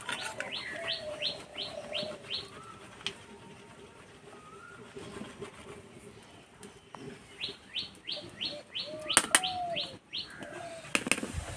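A bird calling a fast run of about seven short falling notes, twice, with lower coo-like notes in between. A few sharp clicks come near the end.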